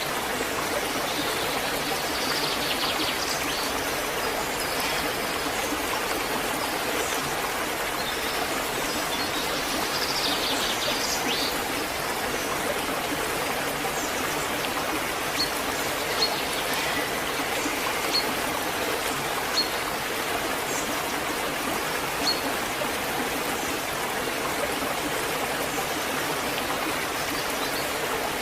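Waterfall rushing steadily, with a few short high chirps over it.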